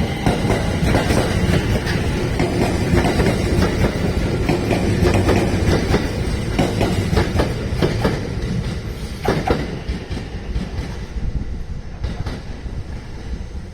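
JR West 227-series electric multiple unit, two sets coupled, pulling away, its wheels clicking over rail joints. It fades over the last few seconds as the train draws off.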